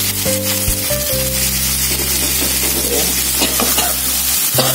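Onion, tomato, chili and lime leaves sizzling in hot oil in a wok, with a wooden spatula stirring and scraping them through the second half.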